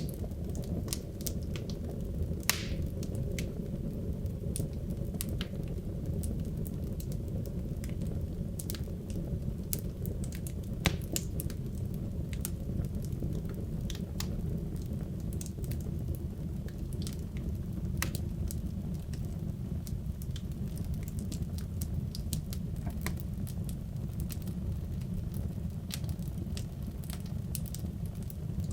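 Wood logs burning in a fireplace: a steady low rumble of flame with frequent sharp crackles and pops, a few of them louder than the rest.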